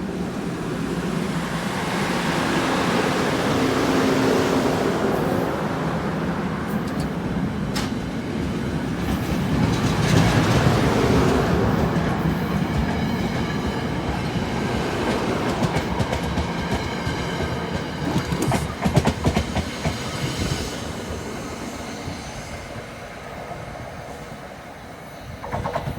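New Jersey Transit commuter train pulling out and passing: a steady rumble that swells twice, with wheels clicking over rail joints in the second half, then fading toward the end.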